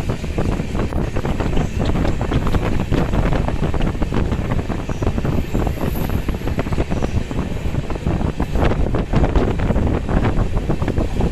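Train running, a steady rumble with dense clicking and rattling, with wind buffeting the microphone.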